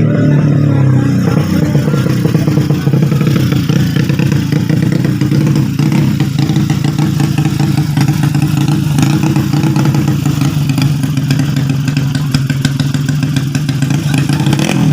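Honda Beat scooter engine bored out to 130cc for road racing, running steadily. Its revs ease down in the first second, then hold at a steady speed.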